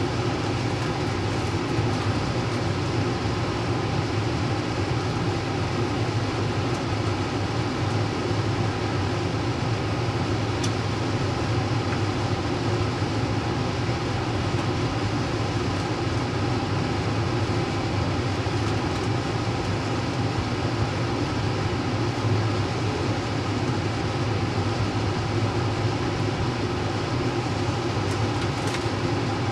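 Steady rumble of train wheels running on the rails, heard from inside a passenger railcar while a long freight train of tank cars rolls past alongside.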